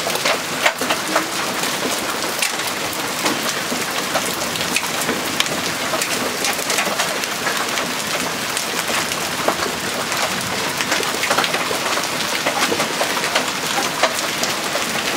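Hail and heavy rain falling: a steady hiss of rain, with many sharp clicks of hailstones striking the ground and surfaces throughout.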